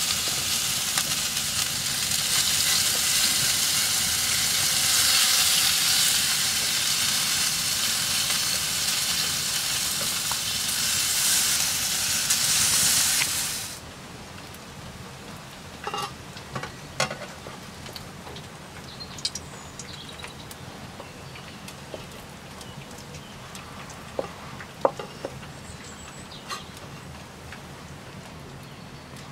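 Bacon and onion rings sizzling hard in a hot pan. About halfway through the sizzle cuts off abruptly, leaving a quiet background with scattered small crackles and clicks.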